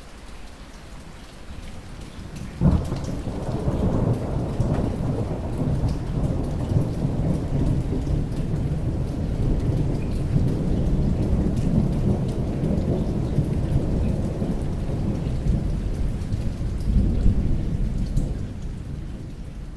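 Steady rain with a thunderclap: a sharp crack about two and a half seconds in, then a long low rumble that swells again near the end before dying away.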